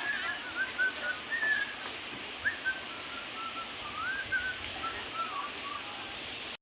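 Birds calling with short whistled, swooping notes, several overlapping at first and thinning out toward the end, over a steady faint hiss.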